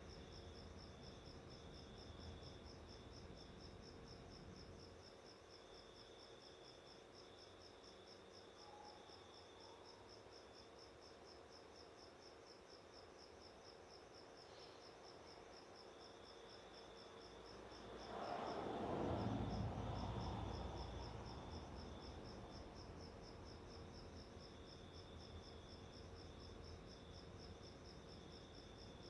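Faint, steady chirring of an insect: a high, evenly pulsing chirp that keeps going without a break. About two-thirds of the way in, a louder whoosh of broad noise rises and fades over a few seconds.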